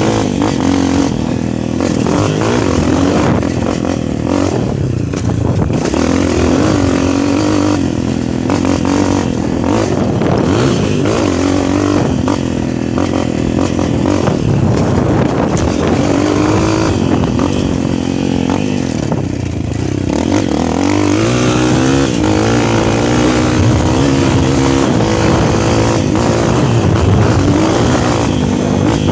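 Motocross dirt bike engine running loud and continuously, its pitch rising and falling again and again with the throttle.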